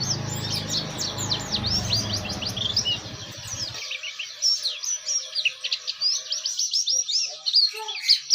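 Pleci (white-eye) songbird singing a fast, continuous twittering song of quick down-slurred chirps. A low rumble underneath stops about halfway through.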